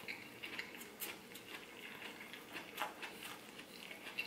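A person chewing a mouthful of fried-oyster po' boy sandwich: faint, irregular small crunches and mouth clicks.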